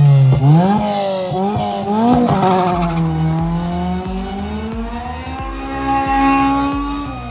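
Classic Fiat 500 engine revving hard as it spins donuts, tyres squealing. The pitch swings up and down a few times in the first couple of seconds, then holds high and climbs slowly.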